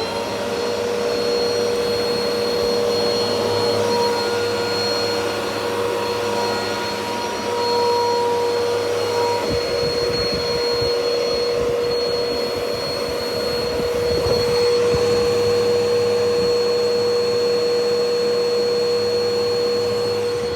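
Bissell PowerLifter vacuum cleaner switched on, its motor spinning up within a moment and then running with a steady whine.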